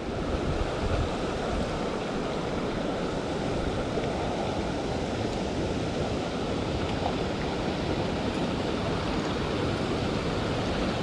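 Steady rushing of fast water pouring through the rocks below a lake spillway, mixed with falling rain.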